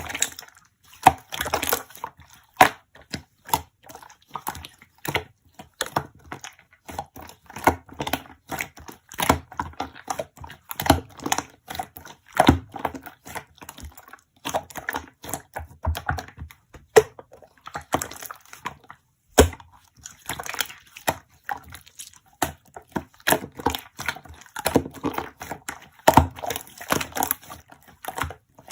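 Slime being squeezed, pressed and stretched by hand, giving a continuous run of irregular sticky clicks, pops and crackles.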